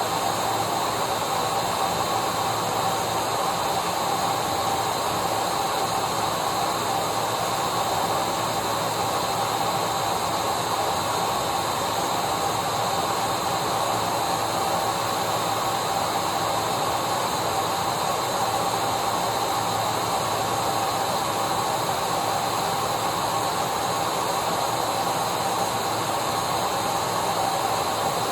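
Electric vacuum cleaner running steadily: a constant rushing hiss of air with a steady whine from the motor, unchanging throughout.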